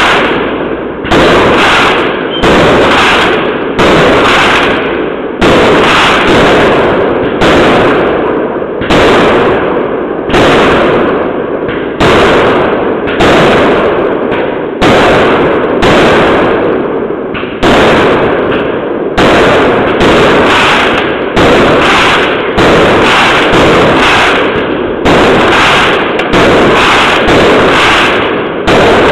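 A steady barrage of fireworks: a loud bang roughly every second or second and a half, each one rumbling away before the next.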